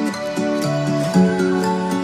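Background music: gentle acoustic guitar picking a melody, from an acoustic camping-folk track.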